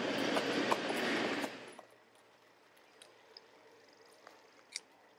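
Narrow-gauge railway passenger coaches rolling past, their wheels clicking sharply over the rail joints. The sound cuts off suddenly about a second and a half in, leaving only a faint low hush with a few small ticks.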